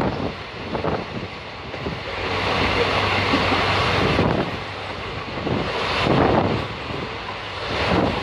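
Moving passenger train running at speed, with wind rushing over the microphone held out of the carriage doorway; the rush swells and eases every second or two.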